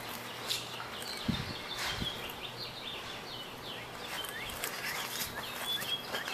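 Small birds chirping, a steady run of short high chirps, with two dull thumps about a second in.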